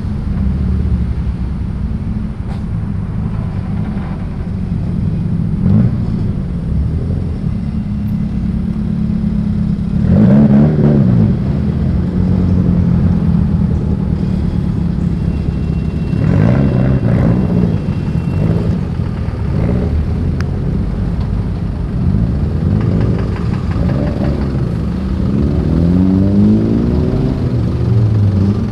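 Modified cars driving past one after another over a steady low engine drone, with individual cars revving as they pass about ten seconds in, again around sixteen seconds, and several more near the end.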